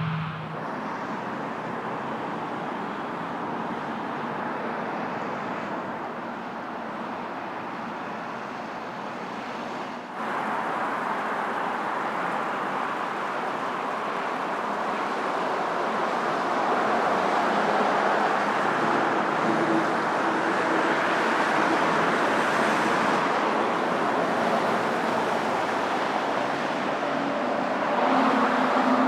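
Airbus A319 jet engines running at low taxi power: a steady rush that breaks off abruptly about ten seconds in, then comes back somewhat louder.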